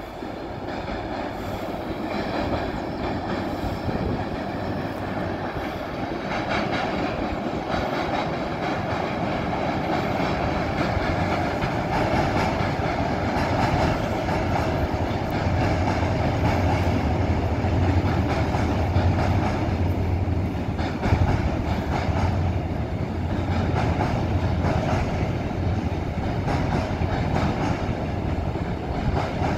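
A locomotive-hauled passenger train crossing a long railway bridge: a steady rumble of wheels on rails that grows slowly louder. A deeper hum joins about halfway through.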